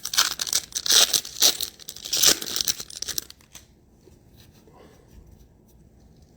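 Plastic wrapper of a Panini Chronicles football card pack being torn open and crinkled in the hands with dense crackling for about three seconds, then only faint handling noise.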